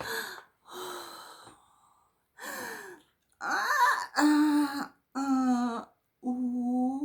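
A woman's wordless vocal sounds: breathy sighs, then three drawn-out, wavering sung-out 'ooh'/'mmm' sounds, the last rising in pitch.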